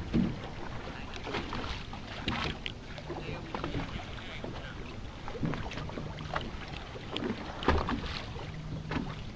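Wind buffeting the microphone aboard a boat on the water, with irregular knocks and a faint low hum that comes and goes.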